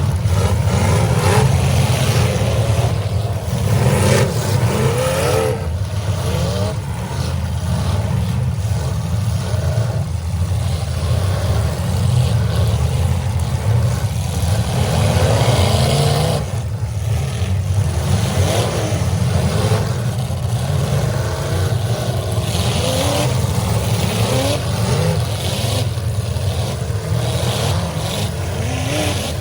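Several demolition derby cars' engines running and revving hard at once: a steady loud low drone with many overlapping pitches rising and falling as the drivers rev.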